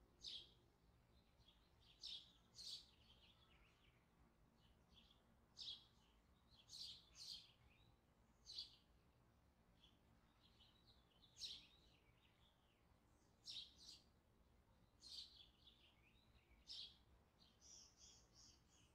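Faint bird chirping: short, separate high chirps every second or two, turning into a quick run of repeated notes near the end.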